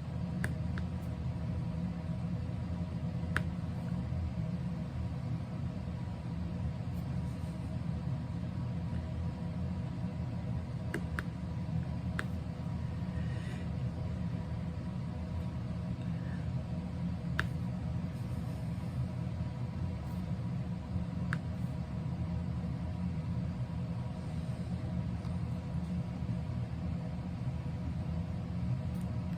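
Steady low hum with a few faint steady tones above it, and a handful of faint, light clicks scattered through.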